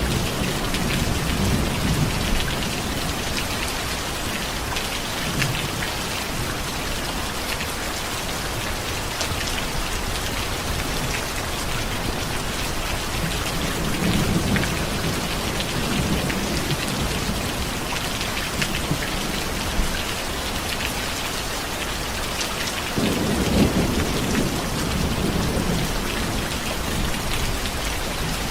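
Steady rain with low rolling thunder. One rumble is fading as the rain begins, a softer one comes about halfway through, and a stronger one swells a few seconds before the end.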